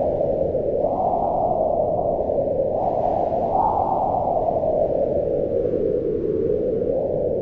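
Howling mountain wind, a continuous rush whose pitch slowly swells up and sinks back in gusts, rising about a second in and again around three to four seconds in.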